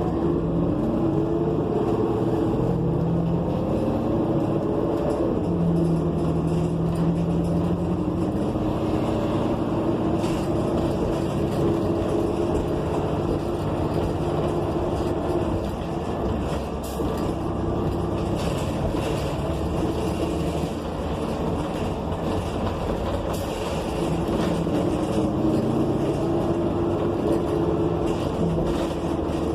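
Cabin sound of a New Flyer XN40 city bus on the move, heard from inside: its Cummins Westport ISL G natural-gas engine and Allison transmission run under a steady road rumble. Several steady tones shift up and down in pitch as the bus speeds up and slows.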